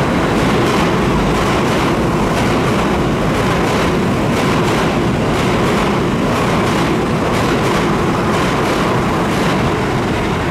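Tokyo Metro 17000 series ten-car train running through a station at speed without stopping: a loud, steady rush of wheels on rail with repeated clacks as the cars pass over the rail joints, the tail of the train going by near the end.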